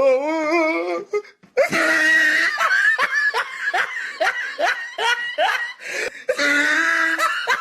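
A person laughing hard in a long run of rapid bursts, after a brief wavering vocal sound at the start.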